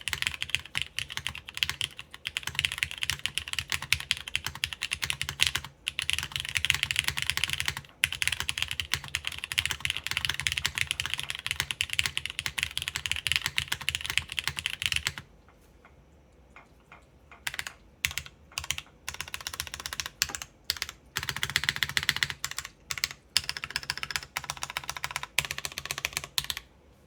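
Fast typing on an o-ring-mounted Plywrks Spyder TKL mechanical keyboard with lubed Cherry MX Nixie linear switches, an aluminium half plate and GMK keycaps. The typing slows to single, spaced keystrokes about halfway through, picks up to fast typing again, and stops just before the end.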